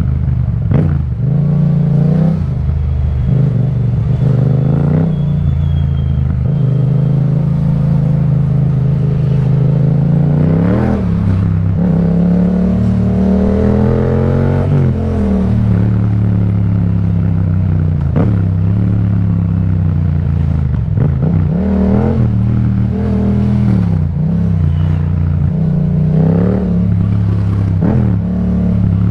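Yamaha MT-07's parallel-twin engine through an Akrapovic exhaust while riding, the revs rising and falling several times as the throttle is worked.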